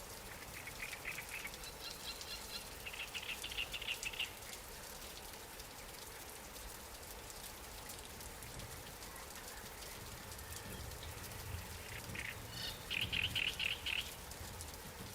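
Light rain falling steadily, with a bird calling in quick, pulsed trills: a series from about half a second to four seconds in, and another near the end.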